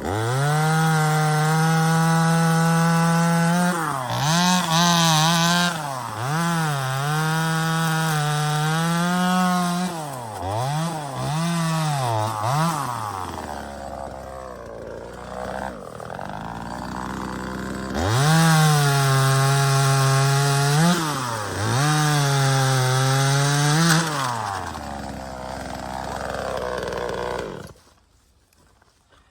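Small 25cc two-stroke top-handle chainsaw (Neotec NCS2500) running at full throttle while cutting wood, its revs dipping again and again, with a slower stretch in the middle. It stops suddenly near the end as the chain, stretched on the brand-new saw, comes off.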